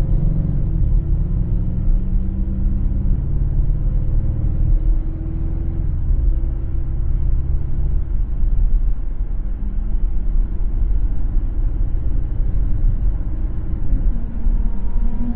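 Car driving on a city road: a low road and engine rumble whose tone slowly falls in pitch over the first six seconds, then steady tyre and road rumble. A steady hum with overtones starts near the end.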